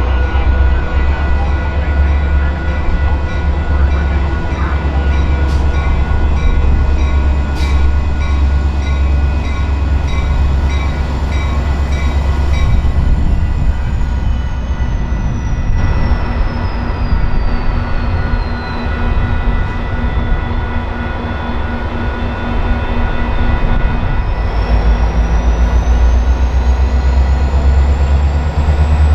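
Metra commuter train led by an MP36PH-3S diesel locomotive, the engine running with a heavy, steady low rumble. Over it sits a high whine that slides down in pitch about halfway through and climbs again near the end.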